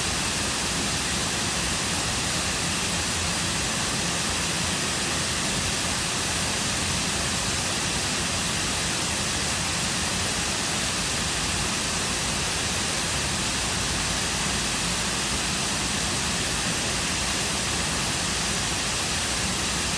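Cascading waterfall: a steady, even rush of falling water pouring into a lake.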